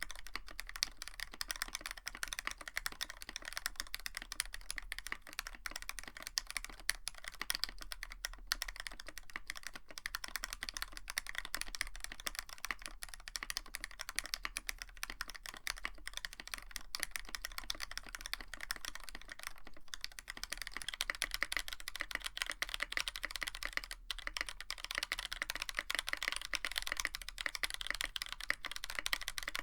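Steady typing on a Tofu65 65% mechanical keyboard with a brass plate and PBT keycaps, with quick, continuous keystroke clicks. The switches are lubed Gateron Ink Black linears until about two-thirds of the way through, then stock Boba U4T tactiles, whose typing is a little louder.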